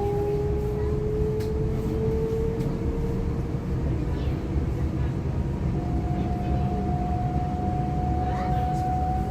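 Cabin sound of a DB class 425 electric multiple unit under way: a steady rumble of wheels on rail with the electric traction drive's whine slowly rising in pitch as the train gathers speed.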